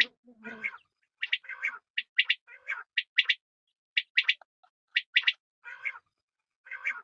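Female quail calling over and over: short, sharp high notes in pairs or triplets, about one group a second, alternating with harsher rasping notes.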